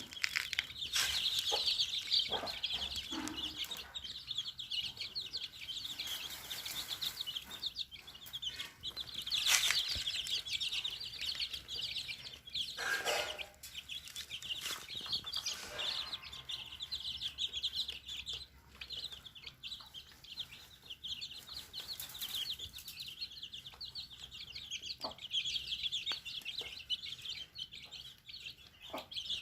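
Chickens clucking with a dense high chirping, and short scratchy rustles of a hen dust-bathing in sand; one louder hen call about halfway through.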